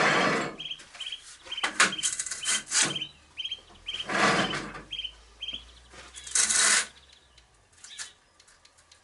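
Workshop handling noises as the lathe bed extension is set up: three short scraping or rubbing bursts and a quick run of clicks and knocks of metal parts. A bird chirps over and over through the first half.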